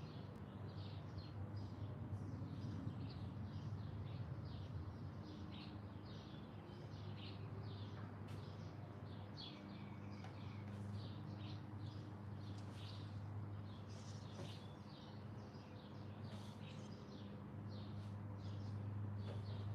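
Small garden birds chirping continuously, many short high notes overlapping and following each other quickly, over a steady low hum.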